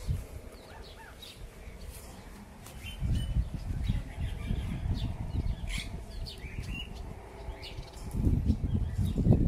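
Small birds chirping and twittering in short, scattered high calls. From about three seconds in, an uneven low rumble on the microphone builds and is loudest near the end.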